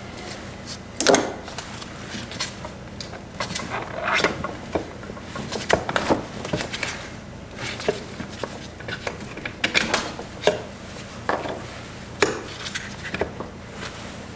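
Hand tools and steel transmission parts clinking and knocking at irregular intervals during disassembly, the loudest knock about a second in.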